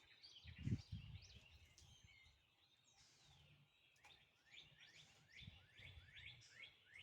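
Faint outdoor birdsong: a small bird repeating quick series of short, down-slurred chirps, busiest a little past the middle, over quiet background noise. A soft low thud sounds about a second in.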